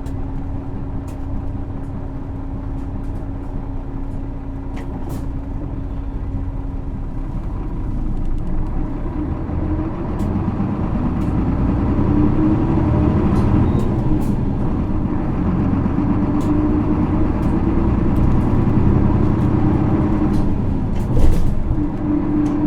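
Interior running sound of a 2009 Isuzu PKG-LV234L2 city bus's 6HK1 inline-six diesel. The engine runs steadily at first, then grows louder from about eight seconds in as its note climbs under acceleration. Near the end the note drops with a short louder sound, typical of a gear change in its automated manual gearbox.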